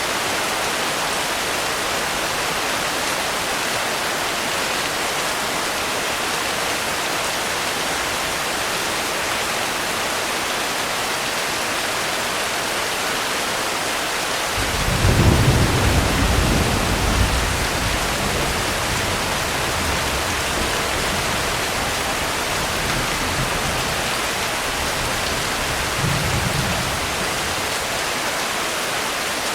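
Steady rain falling, with a low rumble of thunder that starts about halfway and rolls on for a few seconds, and a shorter, fainter rumble near the end.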